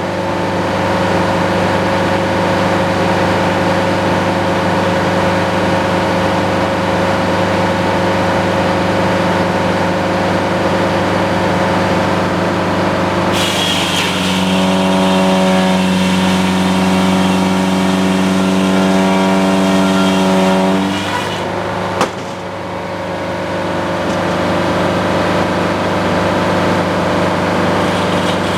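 Sawmill engine running steadily; for about eight seconds in the middle a stronger whine and a high hiss come in over it, then stop, followed by a single sharp knock.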